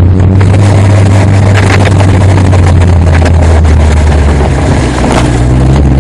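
Sylva Phoenix sports car's engine running steadily at low revs in first gear as the car rolls slowly through long grass. Along with it comes a loud rustle and patter of grass and knocks from rough ground against the car's nose and underside.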